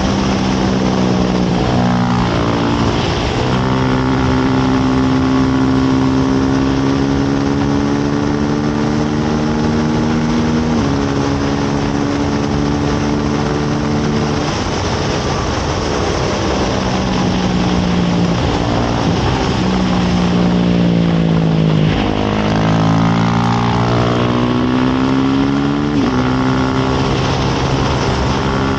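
KTM RC8 V-twin sport bike engine at racing revs, recorded onboard. Its pitch climbs through each gear and drops sharply at the gear changes, about three seconds in and again near eleven seconds. It winds down under braking from about eighteen to twenty-two seconds in, then pulls hard again. Steady wind rush runs underneath.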